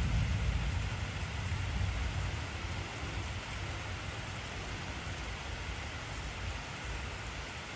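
Heavy rain falling steadily, with a low rumble of thunder that is loudest at the start and fades away, ending near the end.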